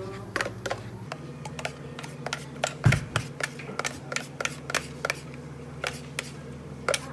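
Quick light clicks and taps of cups, lids and utensils being handled at a cafe counter, a few a second, with one heavier thump about three seconds in, over a steady low machine hum.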